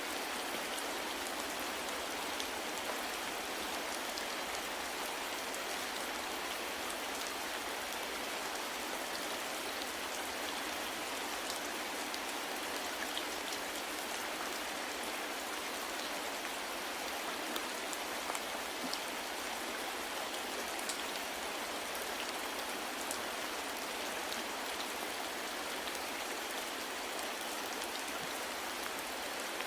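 Steady, even rain falling, with the occasional separate tick of a drop against the constant hiss.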